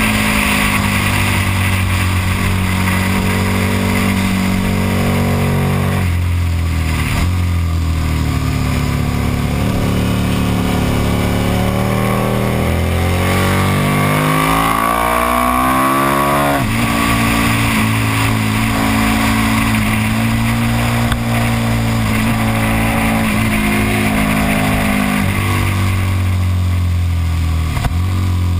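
KTM Super Duke's V-twin engine at speed on track with wind rushing over the onboard microphone. The engine note drops about six seconds in, then climbs steadily for several seconds under acceleration before dropping sharply about halfway through, then holds steady and dips again near the end.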